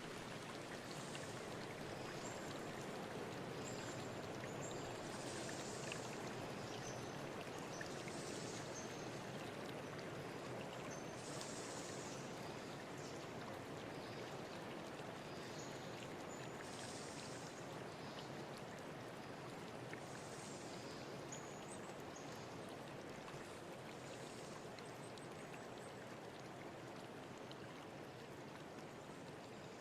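Forest river stream running steadily, with small birds chirping in short, high calls every second or two over the water.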